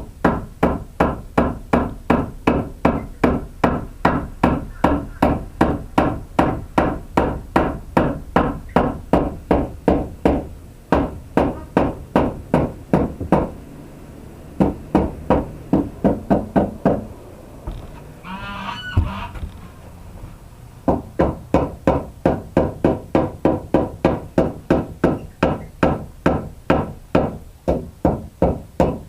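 Hammer blows driving a board into place, about three quick strikes a second in long runs with short pauses. In the longer pause a hen gives one short call.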